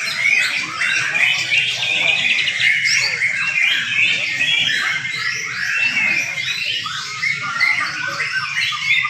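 Several young white-rumped shamas singing at once: a dense, unbroken tangle of quick chirps, whistles and trills.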